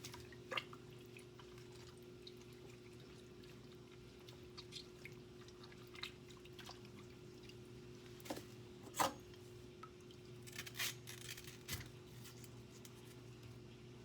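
Faint handling sounds of wet sliced banana stem as its stringy fibres are pulled out: scattered soft clicks, rustles and small wet sounds, with a couple of sharper knocks about two-thirds of the way through. A steady low hum runs underneath.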